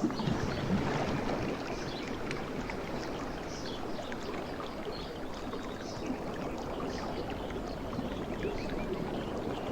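Sea water washing and churning on a shore, a steady wash with a fine crackle of small ticks running through it.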